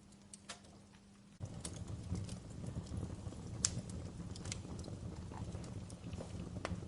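Wood fire in a fireplace crackling, with scattered sharp pops and snaps. About a second and a half in, a louder low rumble of the burning fire starts abruptly and continues under the crackles.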